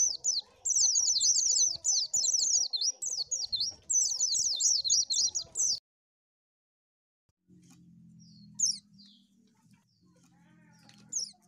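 White-eye (pleci) singing a fast, high twittering song in quick repeated phrases that cuts off abruptly about six seconds in. After a short silence a faint low hum sets in, with a few brief high chirps.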